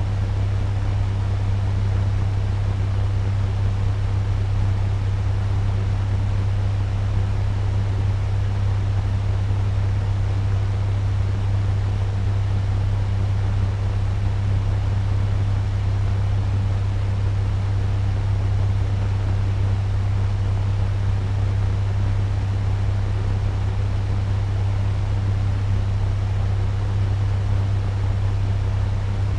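Turbo fan running steadily at medium speed: an even rush of air over a strong, constant low motor hum.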